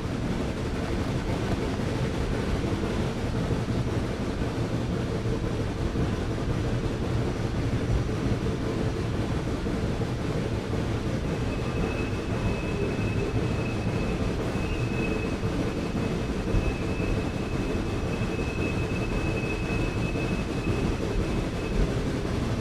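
Excursion train running on the tracks: a steady low rumble of the moving train. About halfway through a thin, high steady squeal joins it for roughly ten seconds.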